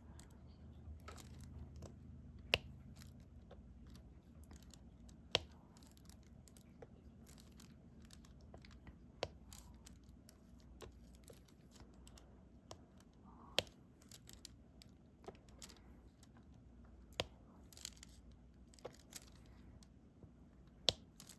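Faint, irregular clicks and taps of a diamond-painting stylus picking up resin drills and pressing them onto the sticky canvas, with a few sharper clicks standing out.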